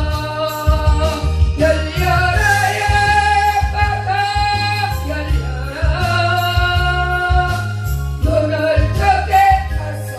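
A Korean gospel special song: a voice singing long held notes over instrumental accompaniment with a steady, stepping bass line.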